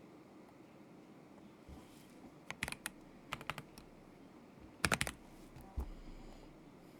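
A few scattered keystrokes on a KZZI K75 Pro mechanical keyboard with Moment linear switches: short clusters of clacks from about two and a half seconds in, the loudest a quick run of keys around five seconds, then one last key.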